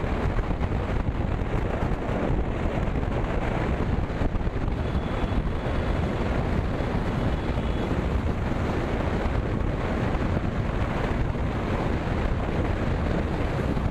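Wind buffeting the microphone of a moving motorcycle, a KTM Duke 200 on the road, as a loud, steady rush with the bike's running noise underneath.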